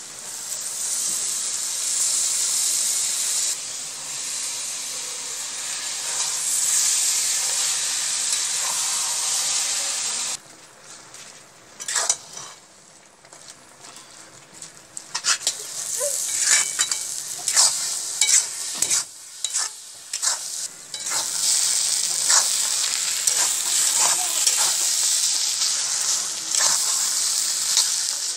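Spiced chepa shutki (fermented dried fish) mixture sizzling in a hot cast-iron karahi while a metal spatula stirs and scrapes the pan. The sizzle drops away about ten seconds in, leaving mostly scrapes and clinks of the spatula, then builds back up in the last third.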